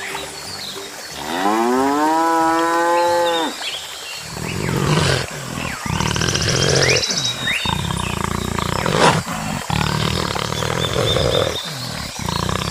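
Animal calls: one drawn-out pitched call that rises and then holds, followed by a string of loud, deep, rough calls with short breaks between them.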